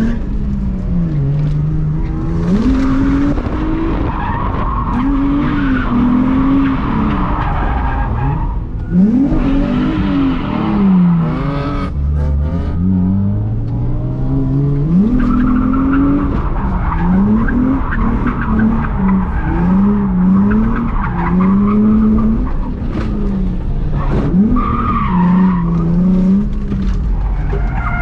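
Infiniti G35's VQ V6 engine heard from inside the cabin, revving up and down again and again through a drift lap, with stretches of tyre squeal as the car slides.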